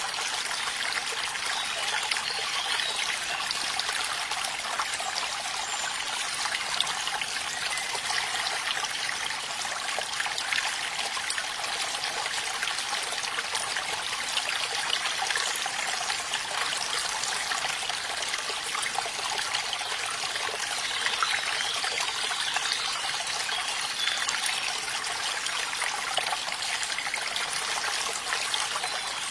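Small stream of running water trickling and babbling steadily, with an even splashing hiss and no pauses.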